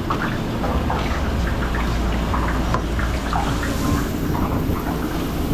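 Food truck kitchen noise: a steady low hum with scattered light clinks and taps of cooking work.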